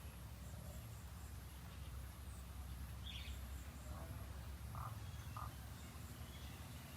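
Faint outdoor ambience: a steady low hum under a faint, regular high ticking of insects, with a short bird chirp about three seconds in and a few soft brief sounds around five seconds.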